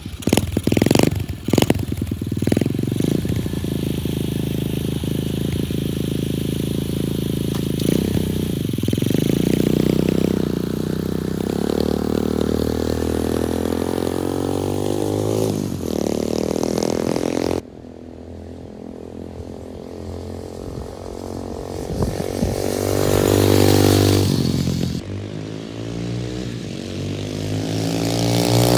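A 125cc Chinese pit bike's single-cylinder four-stroke engine running and being revved, its pitch rising and falling several times, with some clatter in the first couple of seconds. About two-thirds of the way through the sound drops abruptly to a quieter level, then the revs climb again.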